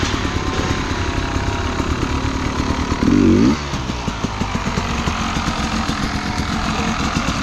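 Enduro dirt bike engine running at low revs, with one short rev that rises and falls about three seconds in.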